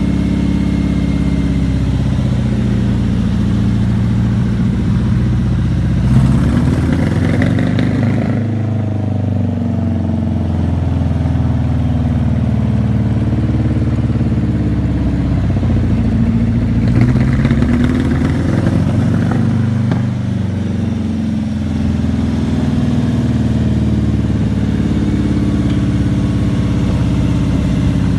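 Ferguson 20 tractor's 2.5-litre Land Rover V8 petrol engine idling, revved up twice for a couple of seconds each time, about a quarter of the way in and again past the middle, before settling back to idle.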